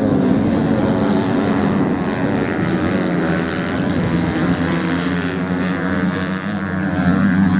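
Racing motorcycle engines running hard on the sand track, a steady drone whose pitch wavers up and down.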